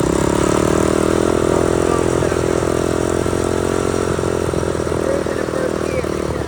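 Small 110 cc four-stroke dirt bike engine running while being ridden. Its pitch rises slightly at the start, then holds fairly steady, and it eases off a little near the end.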